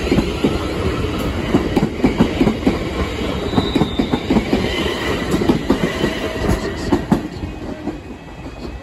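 London Northwestern Railway Class 350 electric multiple unit passing over a level crossing, its wheels clattering rapidly over the rail joints, with brief high wheel squeals in the middle. The clatter thins out and fades near the end as the train moves away.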